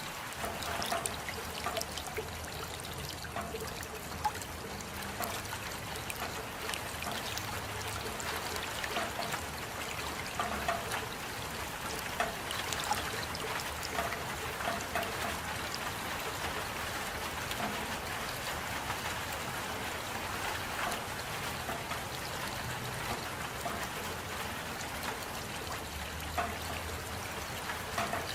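Steady rain, with water trickling and many scattered drops tapping.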